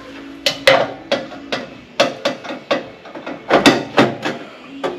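A hammer striking the sheet-metal rocker panel of a 2002 Ford F350 to tap it into line, about a dozen sharp blows at an uneven pace.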